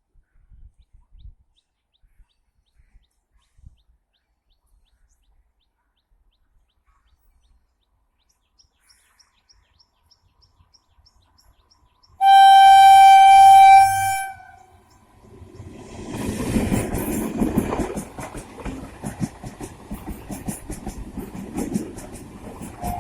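After about twelve seconds of near quiet, an Indian Railways electric local train's horn sounds loudly on one steady note for about two seconds. The train then comes through with a rising rumble and rattling clatter of wheels over the rail joints.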